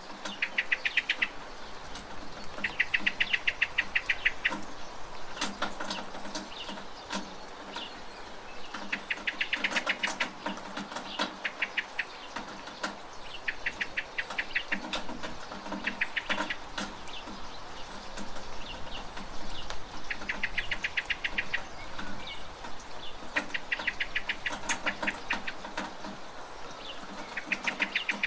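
A bird giving a rapid trill of evenly spaced notes, each trill lasting a second or two and repeating every three to four seconds, over steady rain with scattered drips and taps from a rain gutter.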